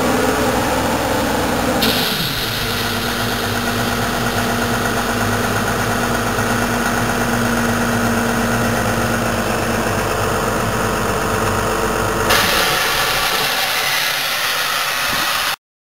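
Cummins six-cylinder turbo diesel of a Compair Holman C210TS-12 portable compressor running. About two seconds in, its note drops and a steady hiss comes in. The sound shifts again near the end and then cuts off suddenly.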